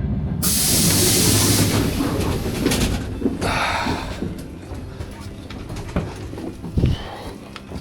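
Electric commuter train at the platform: a sudden loud hiss of air about half a second in that lasts just over a second, then a rumble and a few knocks.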